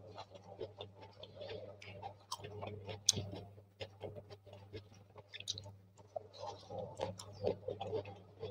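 Close-miked chewing of a tomato wedge: irregular wet smacks and small mouth clicks, with one sharper click about three seconds in. A steady low hum runs underneath.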